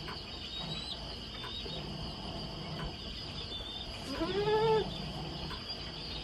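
A goat kid bleats once, a short call that rises and falls, a little after four seconds in, over the steady chirring of evening insects.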